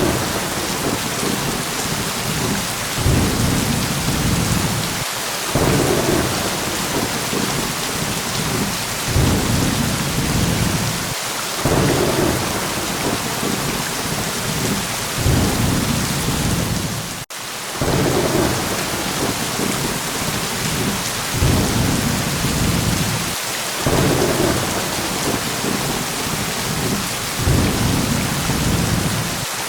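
Steady heavy rain hissing, with low thunder rumbles that swell and fade every two to three seconds. The whole sound cuts out for an instant about two-thirds of the way through.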